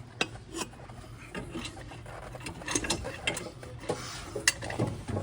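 Irregular metallic clicks and knocks of hand tools and metal parts handled in an engine bay while a turbocharger is worked into place.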